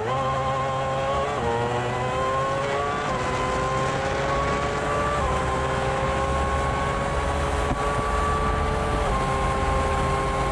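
A racing vehicle's engine accelerating hard through the gears. Its pitch climbs steadily in each gear and drops at each of four upshifts, and each gear lasts longer than the one before.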